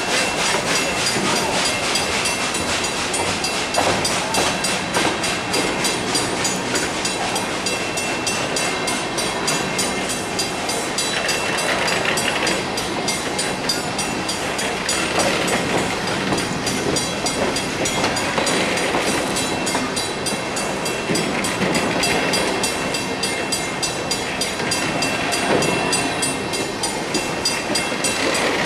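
Empty steel coal hopper cars of a long freight train rolling past, their wheels clattering over the rail joints in a steady, rapid clickety-clack.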